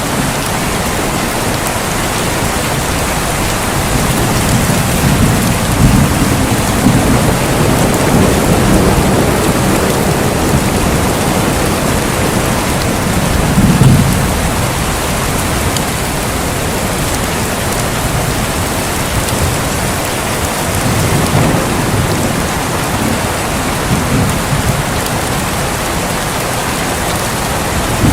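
Steady heavy rain with rolling thunder: low rumbles swell several times, the strongest about a third of the way in, over the constant hiss of the rain.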